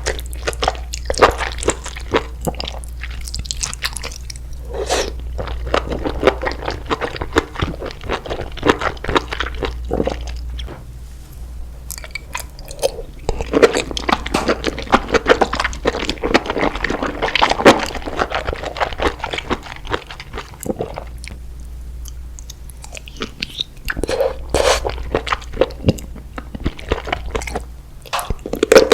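Close-miked eating: a person biting and chewing crunchy food, with dense crackling crunches in spells and quieter chewing pauses between them.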